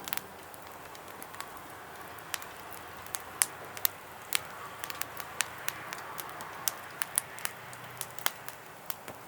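Wood fire crackling, with irregular sharp pops over a faint steady hiss.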